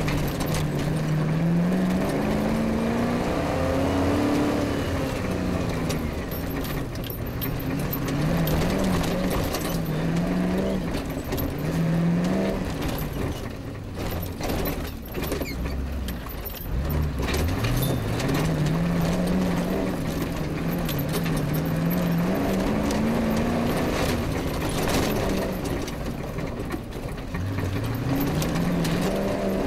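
Off-road rally car's engine pulling hard through the gears, its pitch climbing and then dropping back at each change, easing off briefly about halfway. Knocks and rattles of the car's body and suspension over rough ground run through it.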